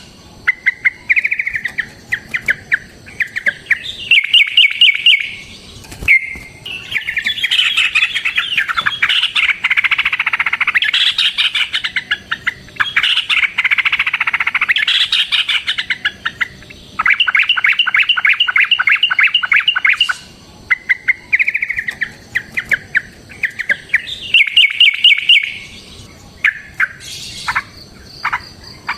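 Yellow-vented bulbul (trucukan) calling, a rapid chattering of repeated notes in bursts, with a dense stretch of overlapping calls in the middle, as in a long, fast song used as a lure.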